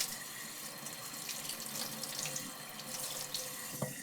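Yanagi blade being ground back and forth on a coarse 120-grit waterstone, a wet, gritty scraping through the stone's slurry. There is a short knock near the end.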